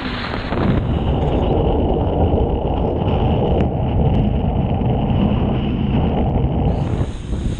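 Jet ski running at speed across the water, a steady loud rumble with wind buffeting the microphone.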